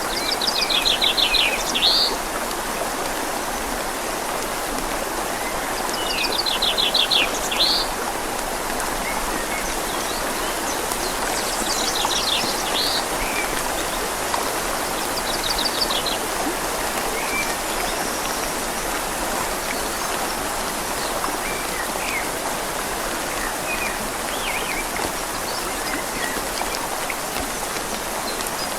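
Steady rain falling on leaves over a gently flowing river, making an even hiss. A small bird gives a fast trill twice, near the start and again about six seconds in, then a few shorter chirps.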